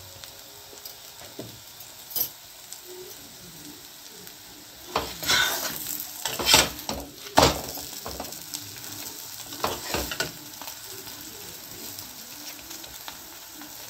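Vegetable paratha frying in oil in a kadai, a steady soft sizzle, with a metal spatula scraping and tapping against the pan several times, mostly between about five and ten seconds in.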